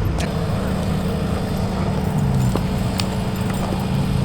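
Car engine idling steadily, with a few sharp clicks.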